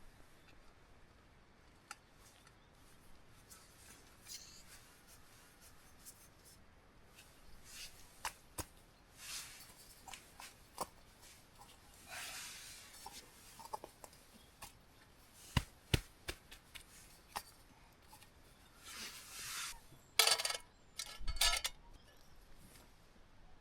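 Scattered light clicks and taps, with a few brief scraping sounds, from hand work with a knife and camp cooking gear. The loudest scrapes come in a quick pair near the end.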